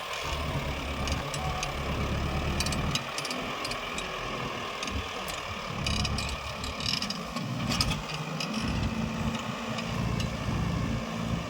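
Kubota tractor's diesel engine running, its low rumble swelling and easing, with scattered metallic clicks and rattles.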